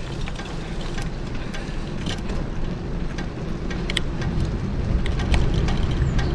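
A bicycle being ridden, heard from a camera strapped to the bike: a steady low rumble of tyres on the road and wind on the microphone, with scattered light clicks and rattles, a couple of them sharper about two and four seconds in.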